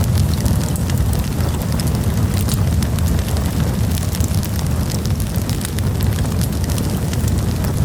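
Campfire burning: frequent sharp crackles and pops over a steady low rumble.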